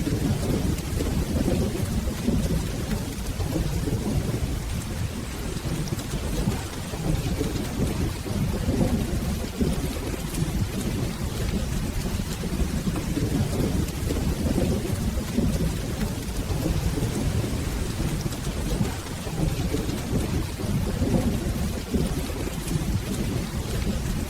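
Steady rain falling, under a continuous low rumble of rolling thunder.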